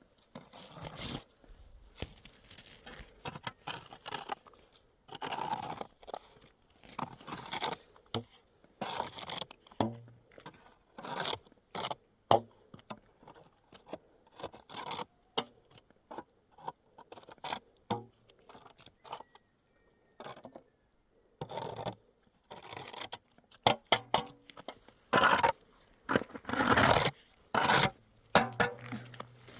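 Irregular scraping and rustling in short bursts with brief gaps, busiest and loudest in the last third.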